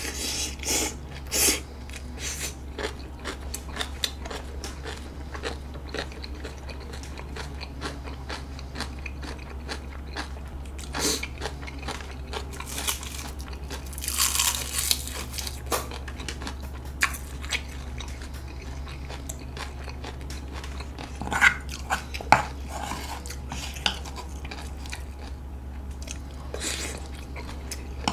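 Close-miked eating sounds: chewing and biting with wet mouth clicks and occasional crunches, the loudest bursts about a second in, around the middle and about three quarters through. A steady low hum runs underneath.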